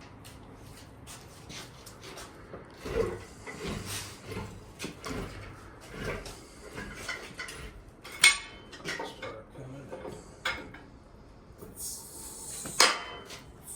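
Metallic clanks and knocks as an engine and transmission are worked up and out of a pickup's engine bay on a hoist. A second of hissing is followed near the end by a sharp pop, which is not a nice pop to get.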